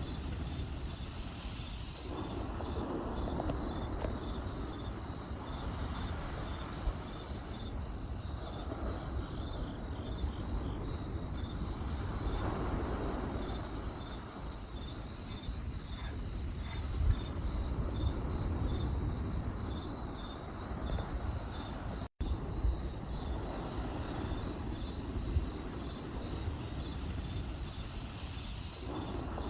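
Crickets chirping in a steady, high, pulsing trill over a crackling campfire, with scattered sharp pops and a low rumble that swells and fades every few seconds. The sound drops out for a split second about two-thirds of the way through.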